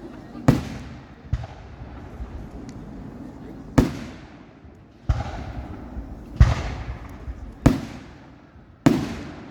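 Aerial firework shells bursting: about seven sharp bangs, irregularly spaced one to two seconds apart, each trailing off in a rumbling echo.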